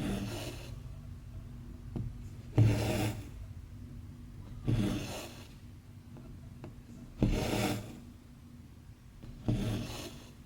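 Embroidery floss being pulled through cross-stitch fabric: a short rubbing swish five times, about every two to two and a half seconds, with faint ticks in between.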